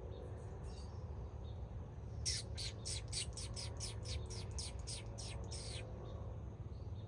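A bird calling a quick series of about a dozen sharp, high notes, each sweeping downward, about four a second, beginning about two seconds in and lasting about three and a half seconds.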